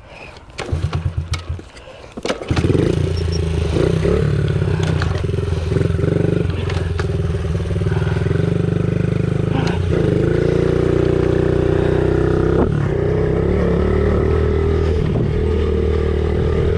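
Honda CRF50 pit bike's small single-cylinder four-stroke engine sputtering briefly about a second in, then catching and running steadily, the pitch rising and falling a little near the middle.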